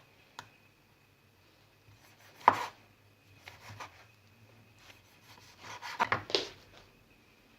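Kitchen knife knocking on a cutting board in a few scattered, irregular strokes, the loudest about two and a half seconds in and a quick cluster of them around six seconds.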